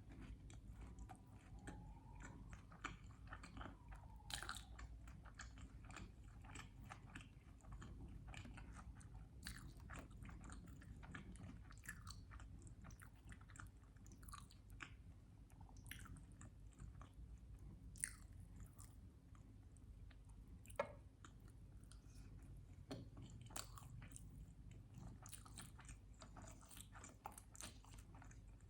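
Faint, close-up chewing and biting of a syrup-covered sandwich: scattered wet mouth clicks and smacks, with a couple of sharper clicks past the middle.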